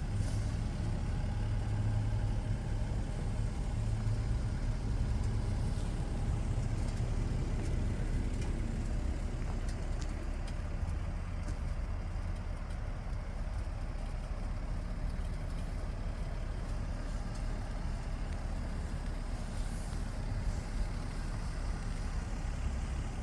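Lexus SC300's 2JZ inline-six engine idling steadily with a low, even rumble.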